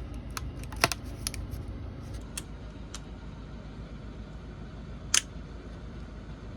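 Scattered sharp plastic clicks and taps from a laptop being taken apart to reach a loose screen connector, about half a dozen, the loudest about five seconds in, over a low steady hum.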